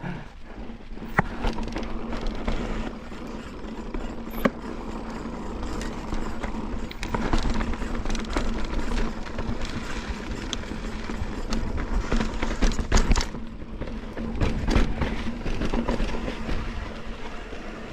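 Mountain bike being ridden over slickrock: a continuous rolling rumble from the tyres on the rock, with frequent rattles and knocks from the bike. It is loudest for a few seconds about halfway through and again around two-thirds of the way in.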